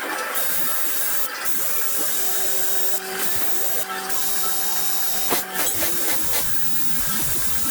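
Steady hissing tool work on a cylinder head's exhaust ports, with a steady whine from about two seconds in to nearly six.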